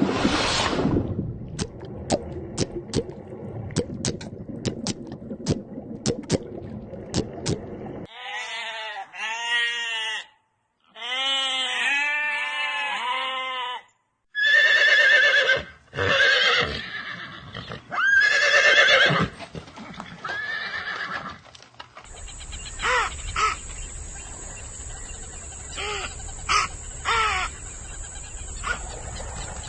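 A run of short animal-call clips separated by brief breaks, among them a horse whinnying in wavering, rising and falling calls. Sharp clicks and noise fill the stretches before and after the calls.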